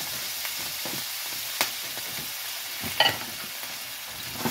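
Frozen jumbo shrimp sizzling in a skillet of hot oil, a steady frying hiss as the water they give off spits in the fat. A sharp crackle comes about a second and a half in, and a louder click about three seconds in.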